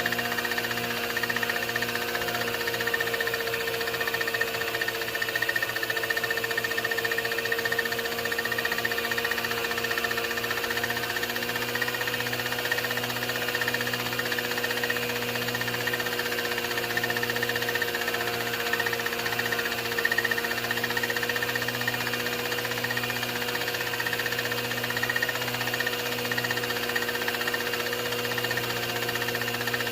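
A 16mm film projector running: a steady mechanical whir with a hum that wavers slightly in pitch and a fast flutter underneath.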